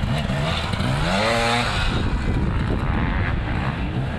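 Motocross motorcycle engines running, with one bike revving up about a second in, its pitch climbing and then holding.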